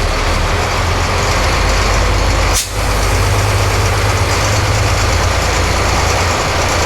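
Engine of a refurbished US school bus used as a Guatemalan chicken bus, running steadily in first gear as it pulls away, heard from inside the bus. There is a short break in the sound about two and a half seconds in.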